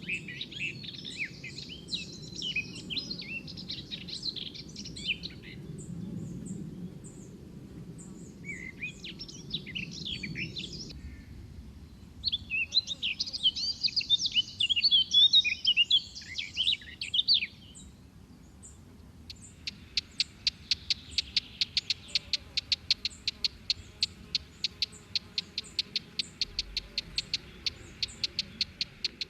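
Songbirds singing in three bouts of quick, varied chirping, the loudest in the middle. From about two-thirds through, a bird repeats one short note rapidly and evenly, about five times a second, until near the end.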